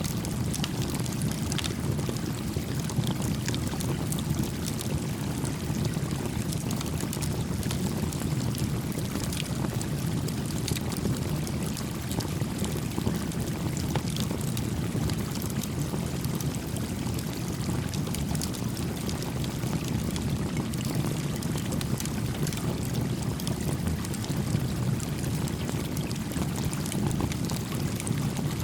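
Steady rush of a small stream flowing, with a small campfire crackling in scattered pops and ticks over it.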